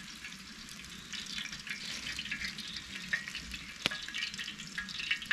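Steaks sizzling as they cook over campfire embers, a dense crackling hiss that grows louder about a second in, with one sharp pop a little after the middle.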